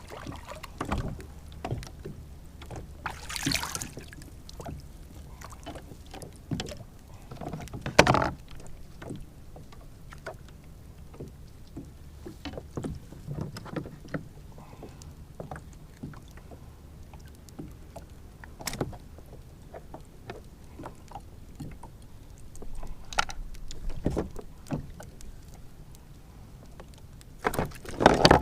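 Scattered knocks and clicks of fishing gear against a plastic fishing kayak over a low steady rumble, the loudest knock about eight seconds in.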